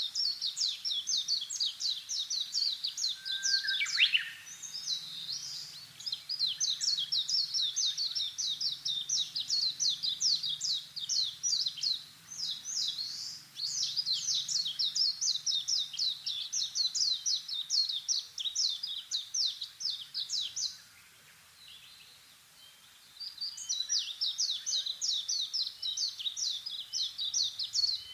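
A small bird calling in long, fast runs of sharp, high chirps, several a second, with short pauses between runs and one downward-sliding call about four seconds in.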